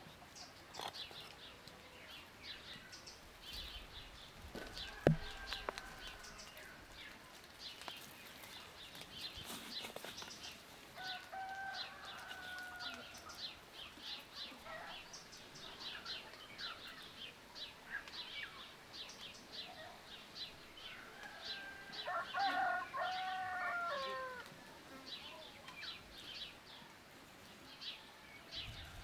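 Chickens calling in a farmyard: many short high chirps throughout, with two longer bending calls, the louder one about three-quarters of the way in. A single sharp click comes about five seconds in.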